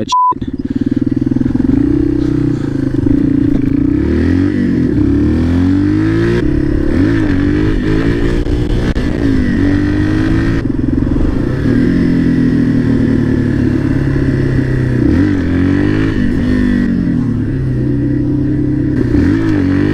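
Dirt bike engine running under way, its pitch repeatedly climbing and dropping as the rider works the throttle and gears. A short beep at the very start.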